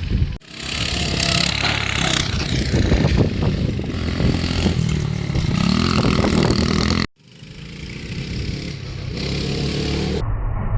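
Small mini bike engine running hard and revving, with the pitch rising about halfway through, over rattling and clatter from the bike. The sound cuts out abruptly twice.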